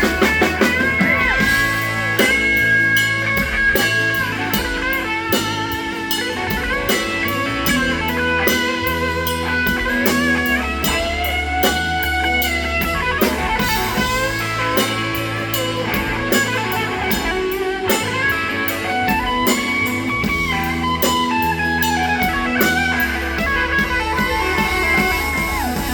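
Live band playing an instrumental passage of a blues-rock song: a lead guitar melody with bent, sustained notes over bass and drum kit.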